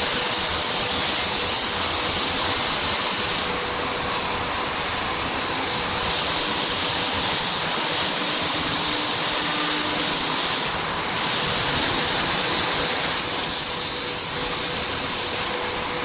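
IMA BIMA Gx60 wood CNC machining centre running, with a steady whine under a loud high hiss. The hiss drops away three times, once for a couple of seconds and twice briefly.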